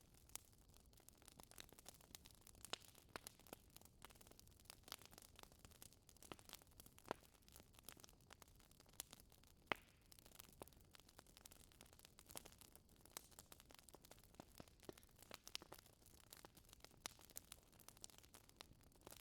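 Wood fire crackling: irregular sharp pops and snaps over a faint steady hiss, with a few louder snaps, the loudest about halfway through.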